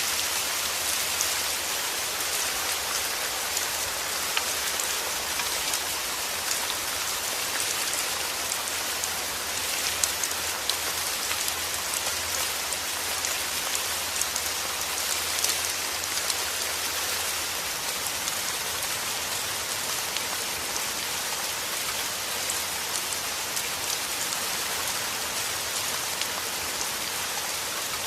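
Heavy rain falling steadily: a dense, even hiss with many individual drops pattering on a surface.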